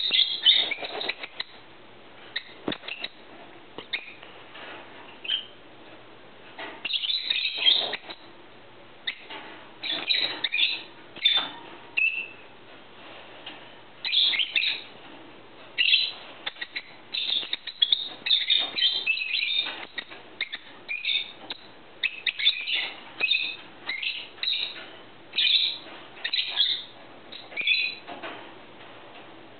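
Small birds chirping and twittering in short, high, irregular bursts, with brief pauses between.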